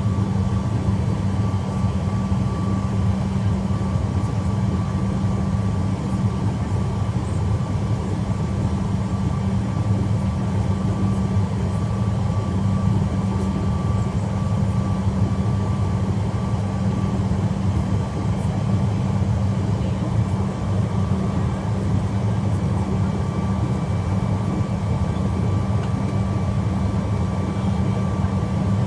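Jet airliner's engines running at steady low power: a constant low drone with a thin, steady whine above it, neither rising nor falling.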